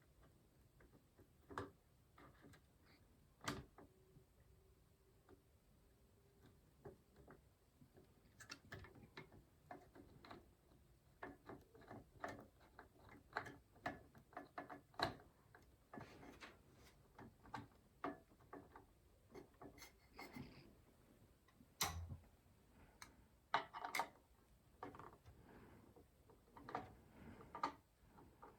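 Faint, irregular small clicks and ticks of plastic and metal as a CPU tower cooler and its mounting hardware are handled and fitted onto a PC motherboard. The clicks grow busier after the first few seconds, with a louder knock about two-thirds of the way through.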